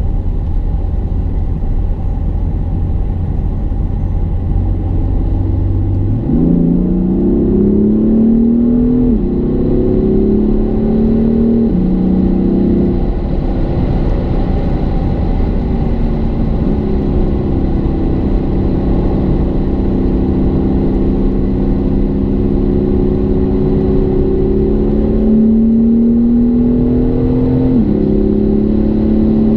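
BMW M4's twin-turbo straight-six engine pulling a car up through the gears. For about six seconds it runs at a steady low note; then its pitch climbs and drops back sharply at each upshift, four times in all, with a long steady cruise between the third and fourth shifts.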